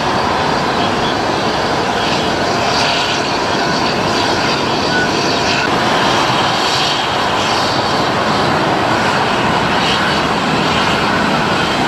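Jet airliner's engines running with a steady, loud, even noise and faint steady tones through it.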